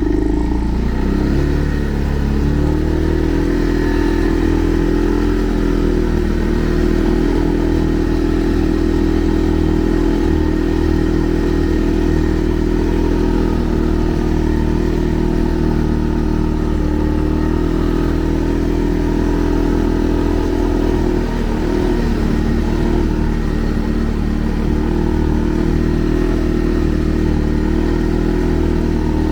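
Segway Snarler 570 ATV engine running steadily while riding, its pitch dipping briefly and recovering a little past two-thirds of the way through.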